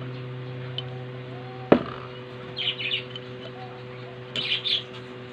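Birds chirping in two short bursts over a steady low hum, with a single sharp knock about two seconds in, the loudest sound.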